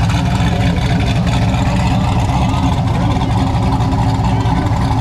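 A car's engine running steadily at low revs: a deep, even rumble with no revving.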